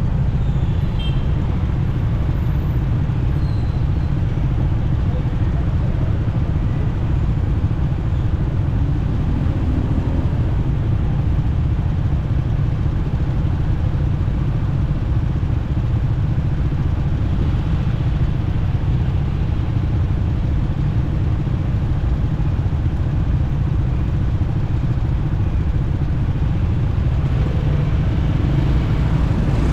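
Motorcycle riding through city traffic: a steady low rumble of engine and road noise, with other vehicles around.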